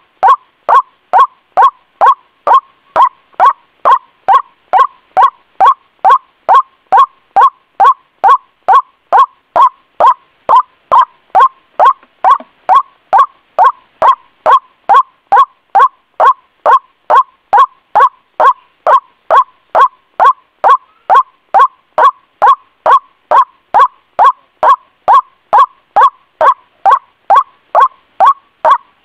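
White-breasted waterhen (ruak-ruak) calling a short, pitched note over and over, evenly, about two and a half times a second without a break. This is the bird's repetitive call as used in a lure (pikat) recording to attract waterhens.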